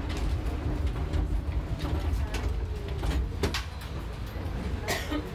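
Tram running with a steady low rumble and scattered clicks and knocks, with people's voices in the background.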